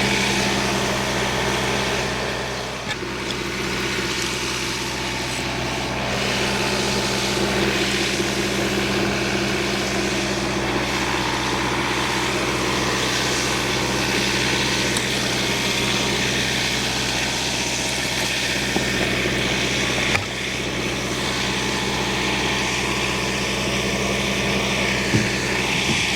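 A farm machine's engine runs at a steady speed while logs are handled, with a few slow rises and falls in pitch and a couple of light knocks near the end.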